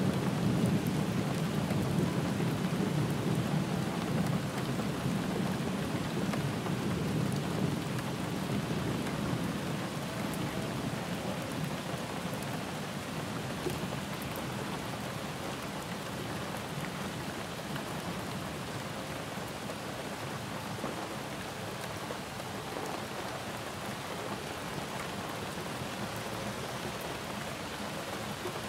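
Steady rainfall, with a low thunder rumble that dies away over the first half, leaving an even hiss of rain.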